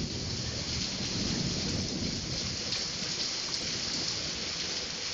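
Steady downpour of heavy rain in a thunderstorm, with a low rumble of thunder underneath.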